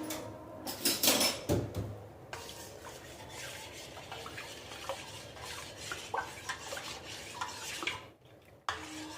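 A spoon stirring a homemade cleaning solution of warm water, baking soda, lemon juice and dish liquid in a bowl, clinking against the sides, with a brief pause about eight seconds in.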